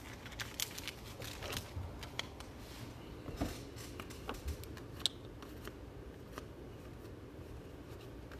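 Handling of plastic card sleeves and trading cards: soft crinkles and small clicks, scattered through the first six seconds or so and sparser after.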